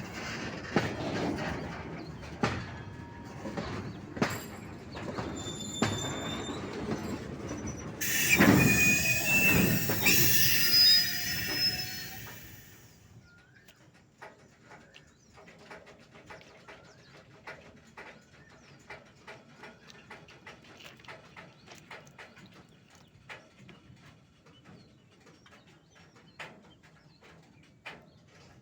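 Train wheels running over track points as the train crosses onto another line: rumbling with clicks and knocks, then about eight seconds in a loud passage of high-pitched wheel squeal for some four seconds. After that the sound drops away to faint, irregular clicking.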